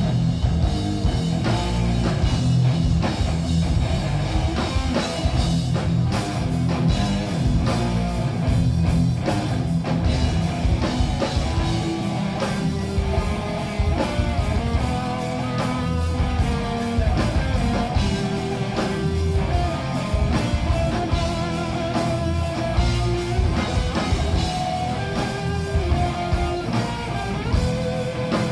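A live heavy metal band playing an instrumental passage: electric guitars and a drum kit, loud and dense, with a melodic line standing out from about twelve seconds in.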